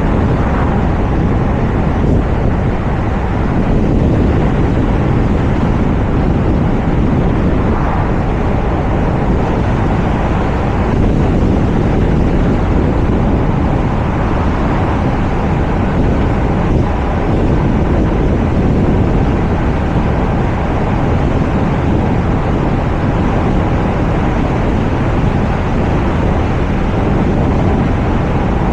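Wind buffeting a roof-mounted camera's microphone on a moving Toyota RAV4, over steady tyre and road noise.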